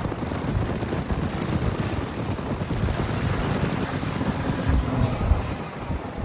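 Scania 770S V8 truck running on the road, a steady engine and road rumble, with a brief high hiss about five seconds in.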